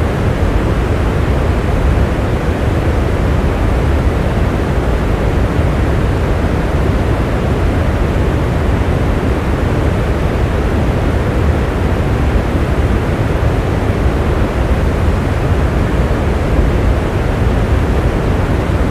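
Steady rain, an even, unbroken rush that is heaviest in the low range.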